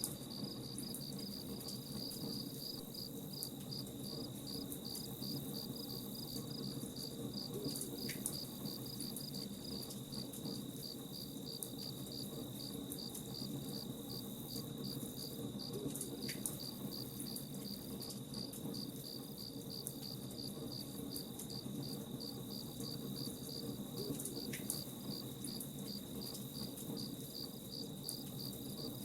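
Crickets chirping in a steady, even rhythm over a crackling campfire, with scattered small pops and snaps.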